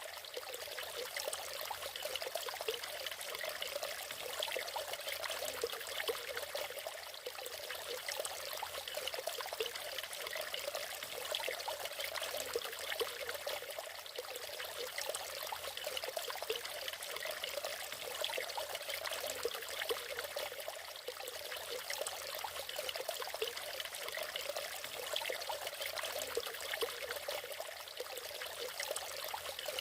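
Waterfall: water splashing and trickling steadily, with little deep rumble.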